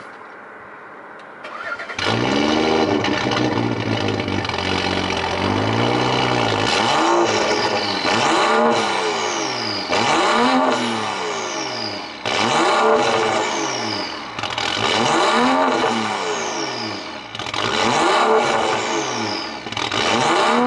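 BMW 535i's 3.0-litre turbocharged inline-six (N55) with a downpipe and muffler delete, starting about two seconds in and idling briefly. It is then blipped repeatedly, about every two and a half seconds, each rev rising and falling away with a thin falling turbo whistle after it. The exhaust is loud and unmuffled.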